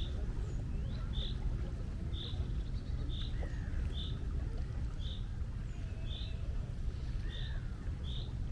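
Seaside ambience: a steady low rumble under a bird's short, high call repeated a little more than once a second, with a few fainter gliding calls.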